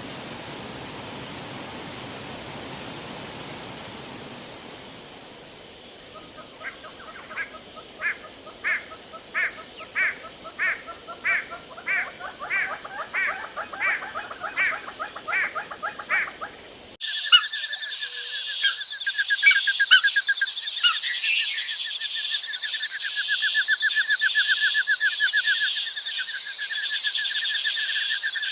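Woodland night chorus of insects and frogs: a steady high insect trill with a call repeated about one and a half times a second over it, then after an abrupt cut a dense pulsing chorus of trills at two pitches.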